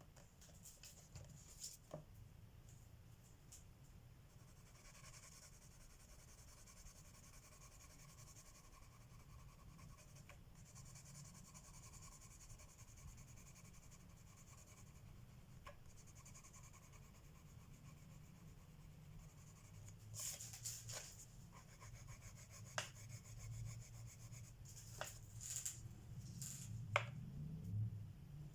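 Coloured pencil shading on paper: a faint, soft, steady scratching of pencil strokes. A few sharp clicks and taps come in the last third, where it gets louder.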